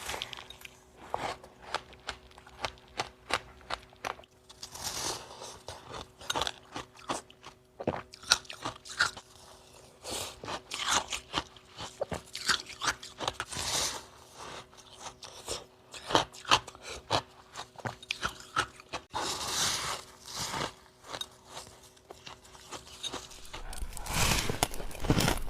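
A mouth close to the microphone bites and chews syrup-soaked frost ice. It makes irregular crunches and crackles in clusters, with many small clicks between them.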